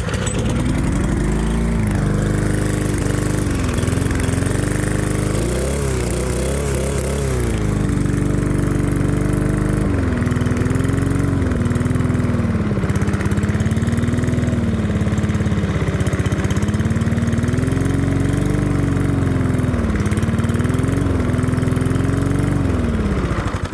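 Cub Cadet push mower's small single-cylinder engine running just after a cold start on starting fluid, its speed rising and falling unevenly rather than holding steady.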